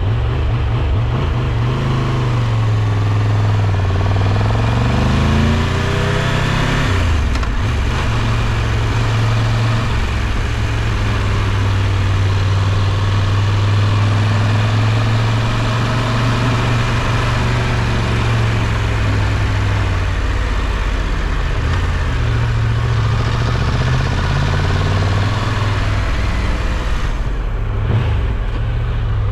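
Triumph Tiger 1200's three-cylinder engine running under way, its note falling and rising with the throttle, with a short break about seven seconds in and then a long steady stretch.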